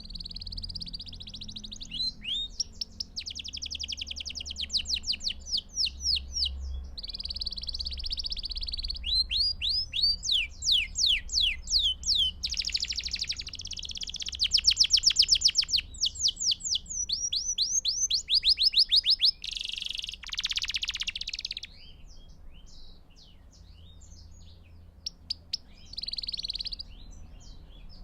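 A domestic canary (canário belga) singing a long, continuous song of fast trills and rolling runs of quickly repeated notes, high-pitched. The song thins to scattered chirps in the last third.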